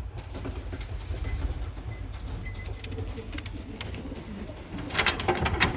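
Racing pigeons cooing in a loft, a low warbling murmur, with a short burst of loud clattering about five seconds in.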